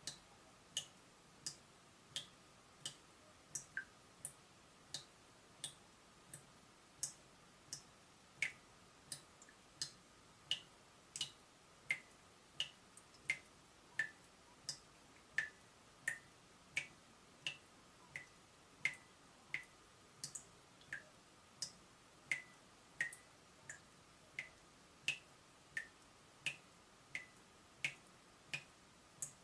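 Leaking tap dripping steadily, each drop a short high plink, about three drops every two seconds.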